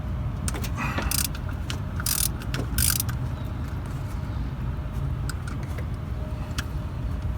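Hand ratchet wrench, with a 12 mm deep socket on an extension, clicking in short runs as a distributor hold-down bolt is worked loose. A steady low rumble runs underneath.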